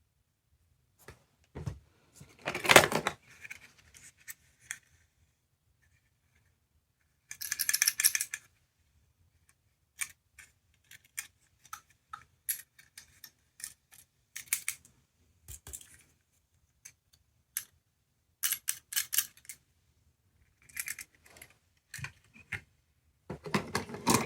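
Small plastic capsule toys being handled: an irregular run of sharp clicks and taps with a few louder short bursts, the loudest about three seconds in and another about eight seconds in.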